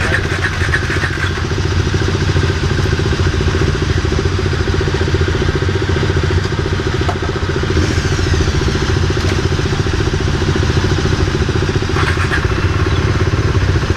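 KTM 390 Duke's single-cylinder engine idling steadily, with a few short clatters near the start and about twelve seconds in.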